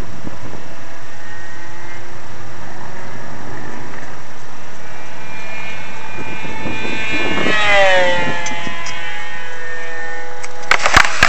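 Electric RC plane's brushless motor (Emax GT2820) and APC 8x8 propeller whining in flight; around eight seconds in the whine gets louder and drops in pitch. A few sharp clicks near the end.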